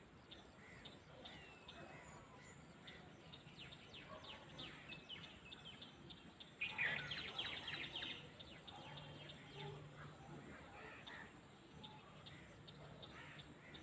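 Faint countryside ambience with birds chirping throughout, and a louder, busier flurry of chirps about seven seconds in.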